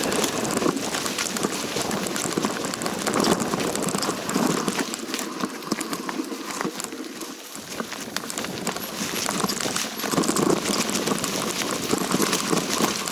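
Footsteps crunching and rustling through dry leaves and brush on a steep trail, a dense crackle of small clicks that eases off for a moment mid-way before picking up again.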